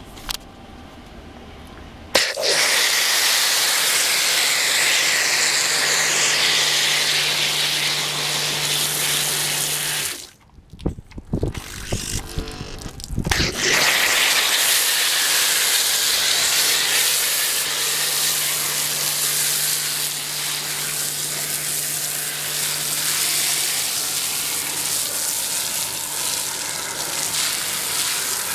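Nilfisk high-pressure washer spraying, a loud hissing jet with the machine's steady low pump hum under it. It starts about two seconds in, stops for a few seconds about ten seconds in with some knocking, then sprays again.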